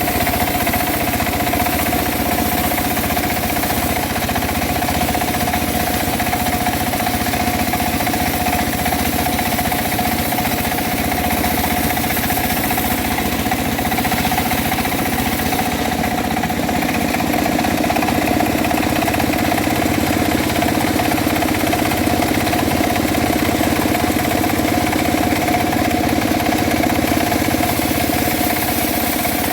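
Homemade engine-driven bandsaw mill running steadily with an even hum, getting a little louder about halfway through.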